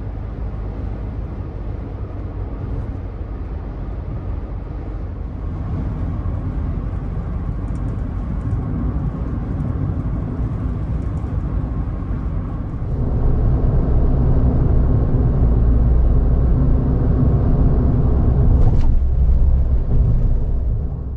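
Kei car engine and road noise heard while driving, a steady low hum that grows louder about two-thirds of the way through and then cuts off suddenly.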